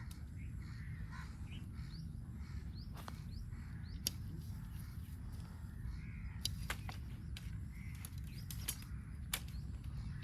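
Birds calling in short chirps over a steady low rumble, with a few sharp clicks.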